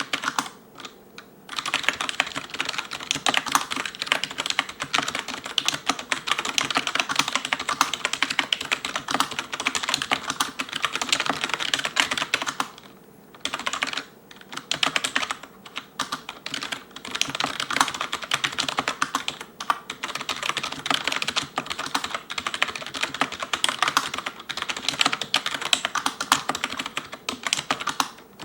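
Fast touch-typing on an ELECOM TK-FDM088TBK membrane keyboard: a dense run of key clicks with short pauses between bursts, including the enter and space keys.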